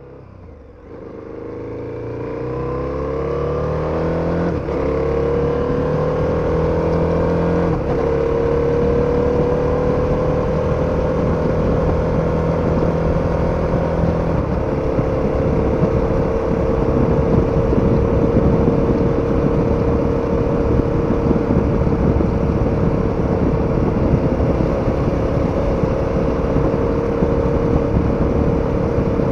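KTM 1290 Super Adventure's V-twin engine accelerating from the rider's seat, pitch climbing with brief breaks as it shifts up, then holding a steady cruise with wind and road rush. The sound fades in over the first few seconds.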